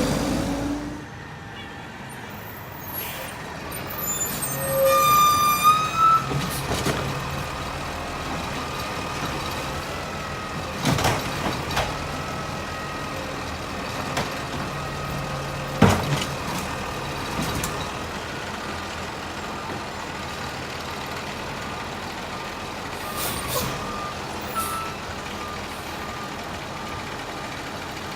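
Garbage truck running steadily, with a few sharp metallic bangs partway through, two of them loud.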